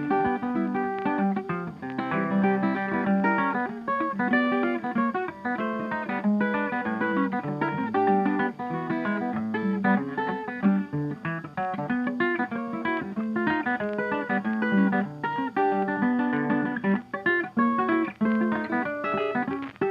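Background music: plucked acoustic guitar with strummed chords.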